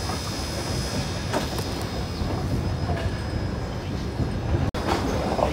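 Open passenger car of a steam excursion train rolling slowly over old track: a steady rumble of wheels on rail, with a few faint clicks at the rail joints.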